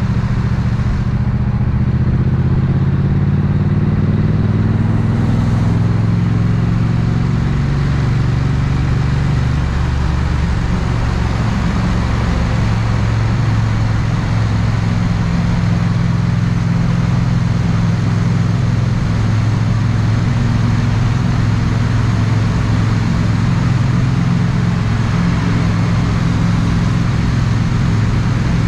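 Triumph 900cc parallel-twin motorcycle engine and exhaust running at low revs in slow traffic, its note rising slightly over the first few seconds and then holding steady.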